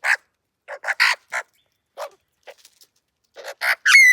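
A young bird calling: a string of short, harsh calls, then near the end louder whistled calls that slide down in pitch.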